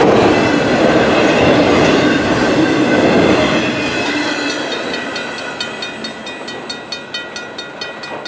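Autorack cars of a long freight train rolling past, wheels on rail: a steady loud rumble that fades about four seconds in as the train moves off. Then come evenly spaced clicks of the wheels on the rail, three or four a second, over a faint high ringing.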